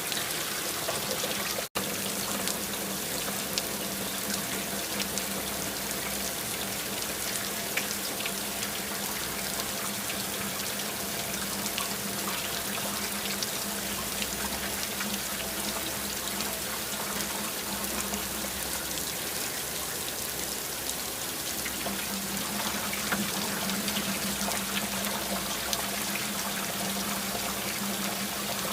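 Steady rain: a continuous hiss dense with the patter of individual drops, with a faint low hum running under it. The sound cuts out for an instant about two seconds in.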